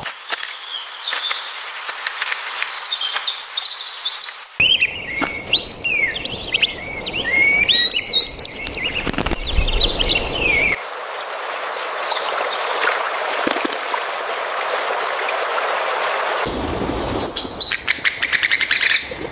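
Birds chirping in short notes that glide up and down in pitch, over outdoor background noise that changes abruptly several times. A steady hiss takes over in the second half, and a quick run of clicking notes comes near the end.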